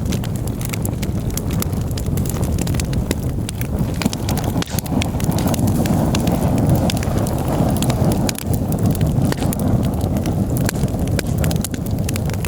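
Wood campfire burning, with many sharp irregular crackles and pops over a low rushing rumble that swells for a few seconds in the middle.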